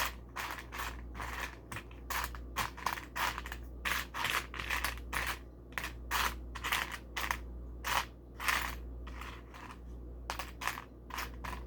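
Plastic LEGO pieces being handled and pressed together: a string of short, irregular clicks and scrapes, about one or two a second.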